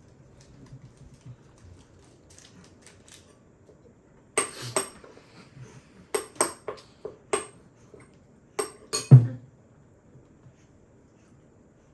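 Cutlery and dishes clinking and knocking on a table: about ten sharp hits in small groups over five seconds, the loudest near the end.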